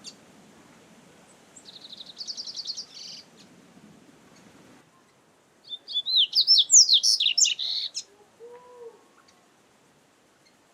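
Double-collared seedeater (coleiro) singing: a short high trill about two seconds in, then a louder, fast phrase of rising-and-falling whistled notes from about six to eight seconds in, followed by a couple of short low notes.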